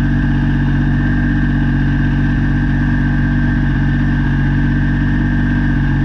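Kubota BX22 compact tractor's three-cylinder diesel engine running steadily at an even speed.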